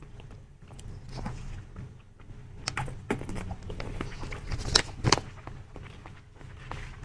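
Close-miked chewing of a soft jelly snack, with wet mouth clicks and smacks, two of them sharper about five seconds in.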